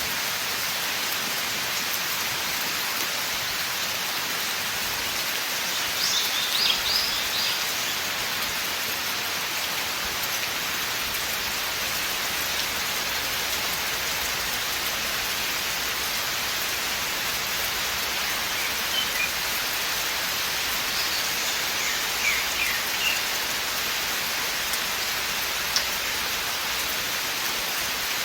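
Steady rain falling in a forest, an even dense patter with no change in level. A few brief high chirps come through about six seconds in and again near the end.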